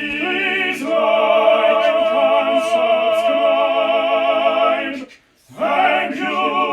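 Operatic voice singing long held notes with a wide vibrato. It stops briefly about five seconds in, then comes in again on another sustained note.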